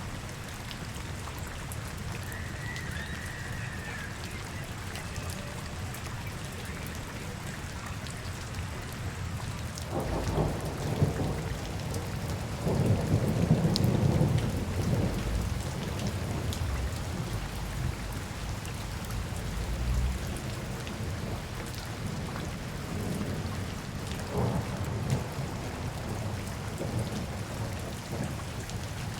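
Steady rain falling and spattering on hard surfaces. About a third of the way in, a deep low rumble swells for several seconds and fades, with smaller rumbles later.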